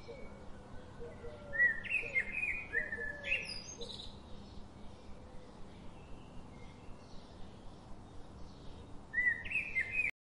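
Birds calling: clusters of short, bright chirps about a second and a half in and again near the end, over softer repeated low notes. The sound cuts off abruptly just before the end.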